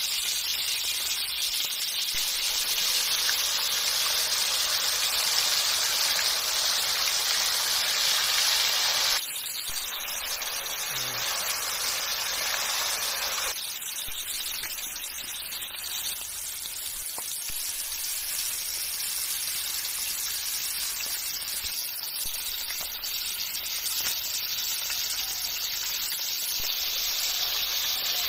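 Steady sizzling of a turmeric-yellow masala frying in oil in a black iron wok, dropping a little in level about nine seconds in.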